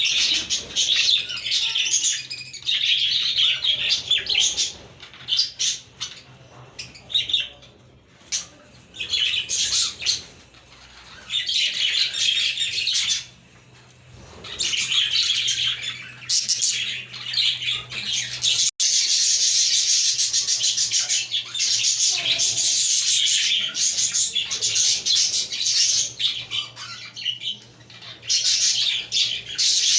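A group of budgerigars warbling and chirping together in long stretches of fast, chattering song, with brief lulls between them.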